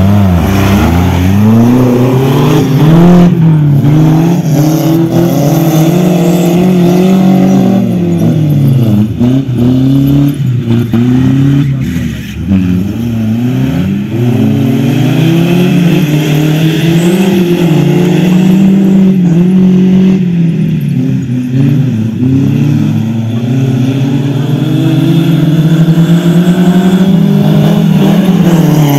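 Off-road buggy engines revving as the buggies drive, the pitch rising and falling again and again.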